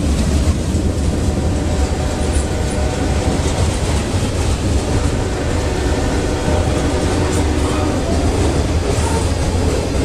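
CSX freight train of loaded covered hopper cars rolling past at speed: a steady, loud rumble of steel wheels on the rails that does not let up.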